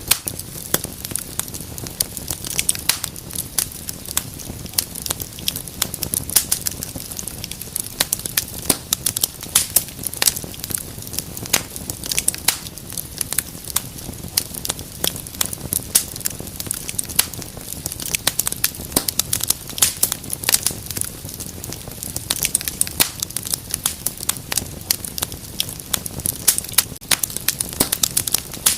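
Wood fire burning in a fireplace, crackling and popping irregularly over a steady low rush of flame.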